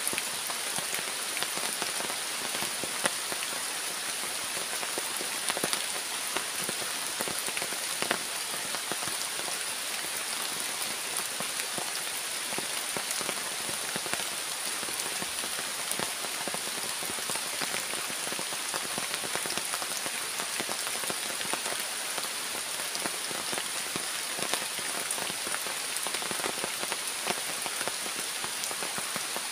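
Steady rain falling, with many scattered louder drop hits and a steady high-pitched whine underneath.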